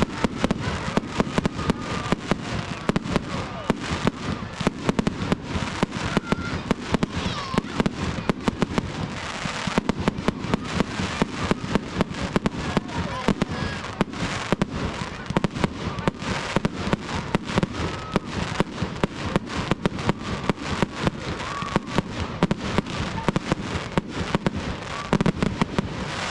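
Fireworks display in full flow: a dense, continuous barrage of bangs and crackles, many a second, without a break.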